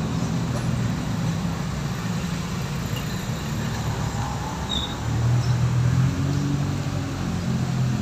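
Steady low rumble of motor-vehicle traffic, swelling a little about five seconds in.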